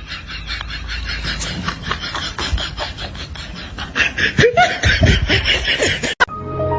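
Laughter in fast, short, repeated bursts, getting louder about four seconds in, then cut off abruptly near the end.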